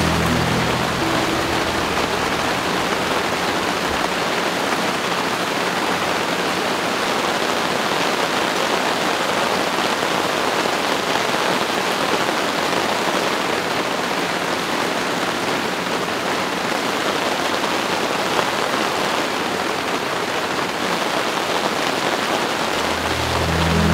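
Steady rain falling in a continuous, even hiss. Low background music fades out about a second in and comes back near the end.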